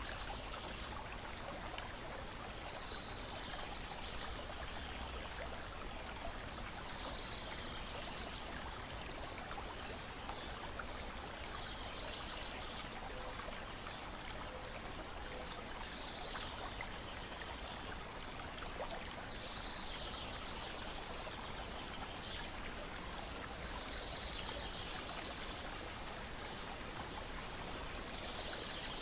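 Steady lake water lapping and trickling against a shore and deck. A bird's short high song repeats about every four seconds, and there is a single faint click about halfway through.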